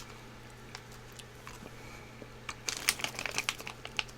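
Crinkling of a plastic snack wrapper being handled, a quick cluster of crackles starting about two and a half seconds in.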